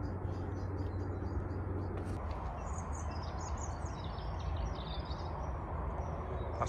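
Small birds chirping: a run of quick, repeated short chirps, then a busier stretch of song from about halfway, over a steady low background rumble.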